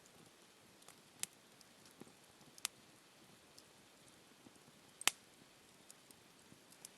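Wood campfire crackling: scattered sharp pops and ticks over a faint steady hiss, the loudest pop about five seconds in.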